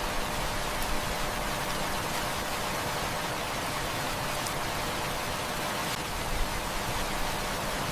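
Steady heavy rain, a dense even hiss, with a few faint sharp ticks scattered through it.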